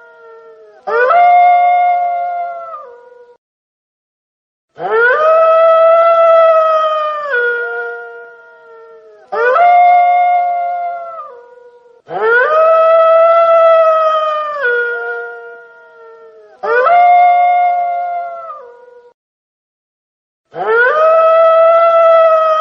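Wolf howling: six long howls in a row, each rising quickly to a held note and dropping in pitch at its end, some running straight into the next.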